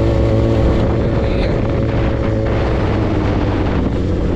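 A vehicle engine running steadily at an even pitch, with a low rumble beneath.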